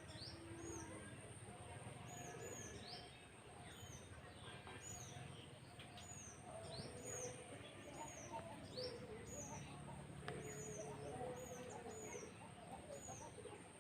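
Faint bird chirping: short, high, arched chirps repeated a little more than once a second, over a steady thin high-pitched tone.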